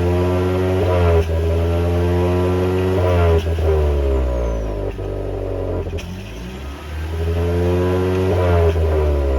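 Toyota Prius 2ZR-FXE 1.8-litre four-cylinder petrol engine running, its speed rising and falling in slow swells: up about a second in, down around the middle, up again and back down near the end.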